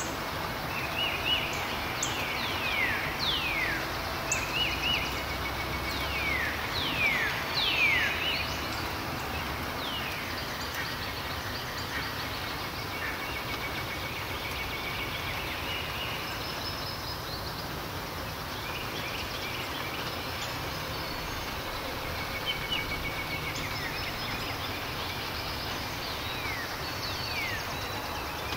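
Outdoor ambience with birds calling: repeated short chirps that slide downward in pitch, thickest in the first eight seconds and again in the last third, over a steady background hiss.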